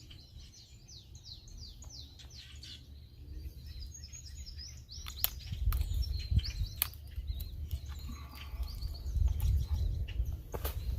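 Songbirds chirping and calling in quick repeated phrases, over a low rumble that grows louder partway through, with a few sharp clicks.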